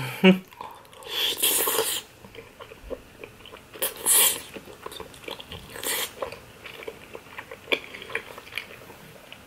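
Close-miked chewing of a mouthful of cheesy lasagna: soft, wet mouth sounds and small clicks, louder for a moment about one and a half, four and six seconds in.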